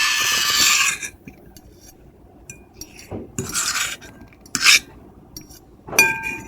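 Metal fork and knife scraping across a plate: a long harsh scrape that stops about a second in, then a few short scrapes with gaps between them. Near the end comes a sharp clink that leaves the plate ringing with a few high tones.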